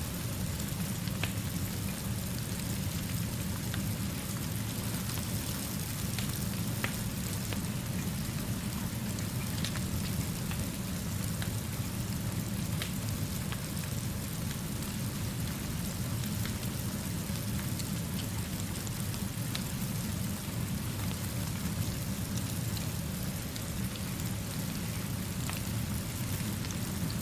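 Steady rainfall, an even hiss with a steady low rumble underneath and scattered faint ticks, from a rain-and-fire ambience mix.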